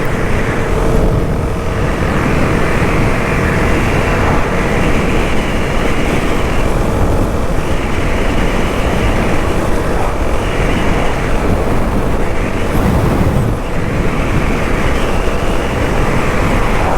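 Suzuki DR-Z400S single-cylinder motorcycle ridden at road speed: a steady rush of wind and road noise over the engine.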